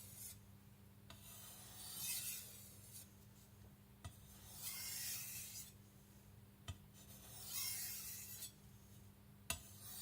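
A Tojiro shirogami nakiri's blade scraping in three slow strokes a couple of seconds apart, each a soft rasp, with a light tap between strokes.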